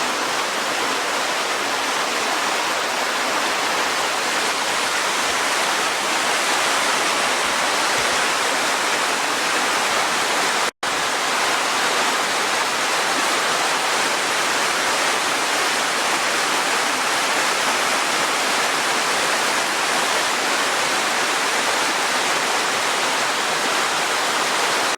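Waterfall pouring steadily, heard close at its base: an even, unbroken rush of falling water, with a momentary dropout just before halfway.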